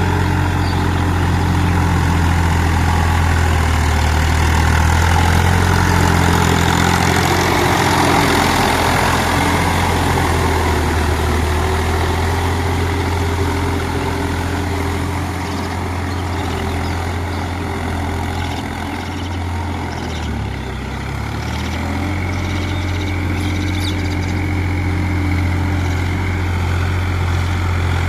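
New Holland tractor's diesel engine running steadily while tilling a field, its note dipping briefly about two-thirds of the way through before recovering.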